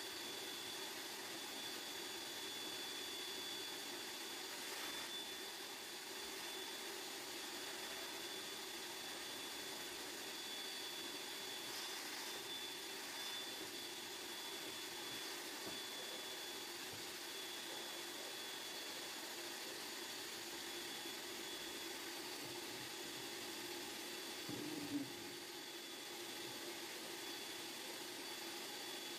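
A steady mechanical whir with a faint high whine, like a household motor running, and a short knock near the end.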